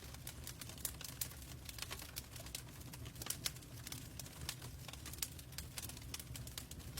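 Log fire in a fireplace crackling: many irregular sharp pops and snaps over a low steady rumble of the flames.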